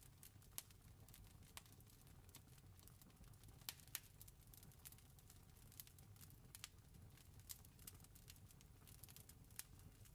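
Campfire crackling faintly: irregular sharp pops and snaps, a few louder ones, over a low steady rumble.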